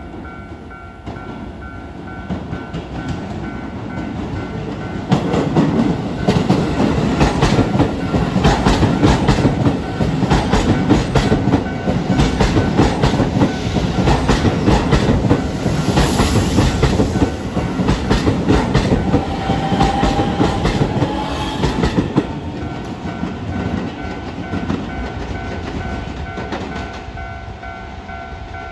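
An electric commuter train passes over a level crossing at speed, its wheels clattering rapidly over the rail joints. It builds up over the first few seconds, stays loud for about fifteen seconds, then fades. A Japanese level-crossing warning bell rings steadily throughout.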